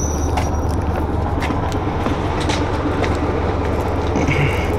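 Heritage railway train heard close up: a steady low rumble under an even hiss, with a few faint clicks.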